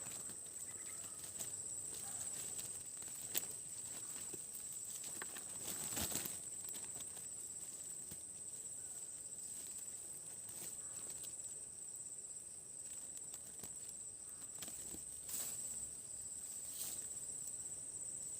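Steady high-pitched insect drone of forest crickets or cicadas, with scattered clicks and rustles of handling nearby.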